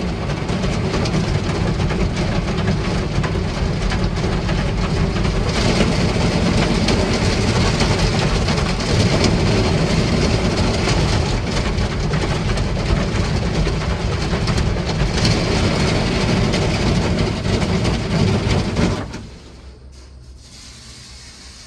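Beauty 'Miyabi' automatic car wash machine working over the car, a loud, dense rush of water and machine noise on the body, heard from inside the cabin. It cuts off sharply about 19 seconds in, leaving a much quieter steady hum.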